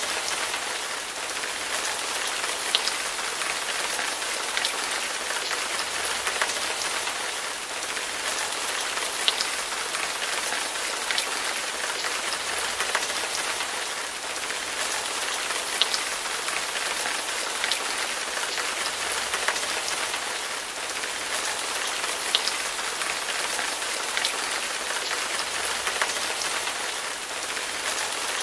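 Steady rain falling, an even hiss, with single louder drops ticking out every couple of seconds.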